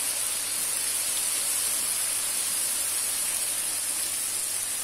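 Beef pieces frying in oil in a pan, a steady sizzle.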